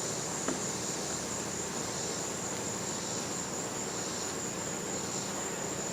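Steady, high-pitched chorus of outdoor insects, an unbroken shrill trill, with one small click about half a second in.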